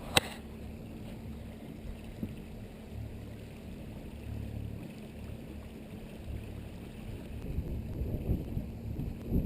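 Sailing yacht underway: a steady low hum with a faint steady tone running under it, a sharp click just after the start, and wind buffeting the microphone in the last couple of seconds.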